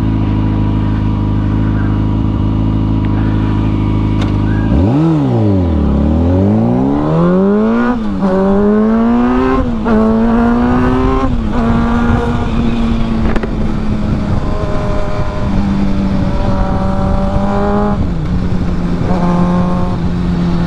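Small single-cylinder Honda Grom motorcycle engine under way: it holds a steady note, drops sharply in revs about five seconds in as the rider slows, then revs up through the gears with three upshifts before settling into a steady cruise. Wind rushes over the microphone throughout.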